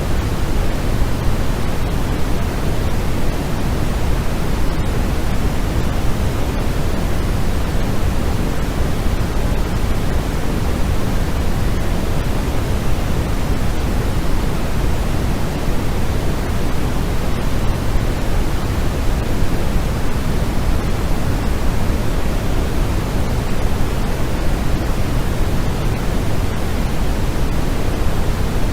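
Steady, unchanging white noise for sleep, heavier in the low end than in the highs, with no rhythm or separate events.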